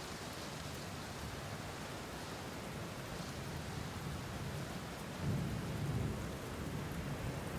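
Steady rain falling, with a low rumble of thunder swelling about five seconds in.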